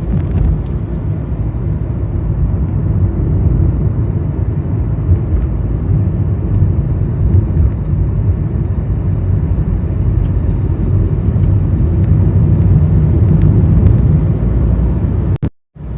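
Steady low road and engine noise from a vehicle being driven along a road. The sound cuts out briefly near the end.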